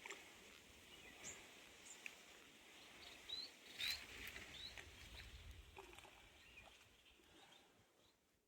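Faint outdoor ambience with a few short, high chirps from small birds and one brief sharp click about four seconds in.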